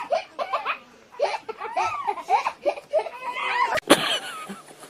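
Someone laughing in repeated high-pitched bursts, with two sharp knocks about four seconds in.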